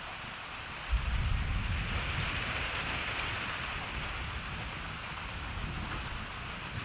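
Steady rain falling, with a rumble of thunder that starts suddenly about a second in and slowly fades over the next few seconds.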